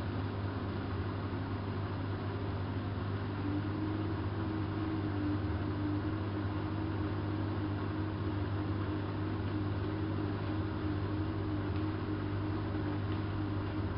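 Hanseatic HWM814A3D front-loading washing machine running mid-cycle: a steady motor hum, with a faint higher whine coming in a few seconds in.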